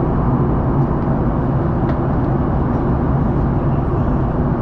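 Steady in-flight cabin noise of a Boeing 737-800: a constant drone of rushing air and engines with a low hum.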